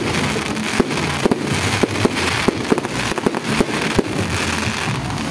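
Fireworks going off in a rapid, irregular string of sharp bangs, several a second at times, over a steady rush of noise.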